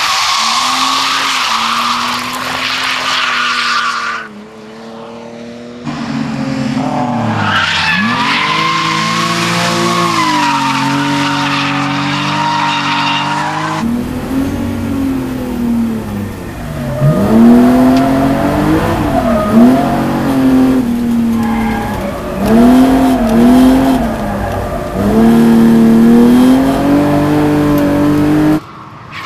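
A drift car's engine revving hard, with tyre squeal as a BMW 3 Series coupe slides sideways through a corner. After a cut, from inside a car, the engine revs rise and drop again and again as it is driven hard along the track.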